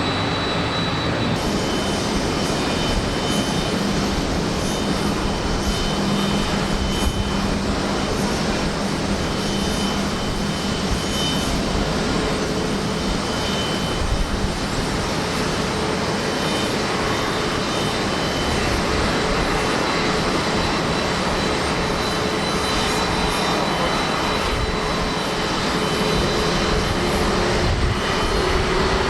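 Large jet airliner's engines at takeoff thrust: a loud, steady noise with a faint whine that rises slightly in pitch near the end.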